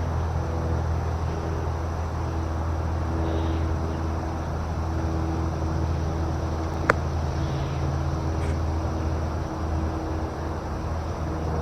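Steady low engine rumble with several steady humming tones, as of vehicle traffic, and a single sharp click about seven seconds in. A few faint, short falling chirps come and go.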